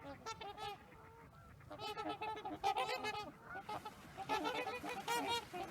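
A flock of waterfowl calling: many short honking calls from several birds overlapping, with a brief lull about a second in before they pick up again.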